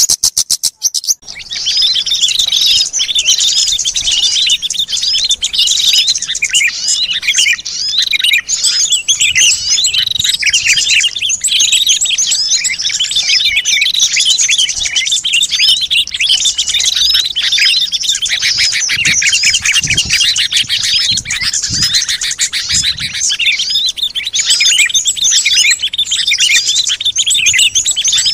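A dense chorus of many small songbirds chirping and twittering all at once, a bird-lure recording played to call wild birds in. It starts again after a short break about a second in.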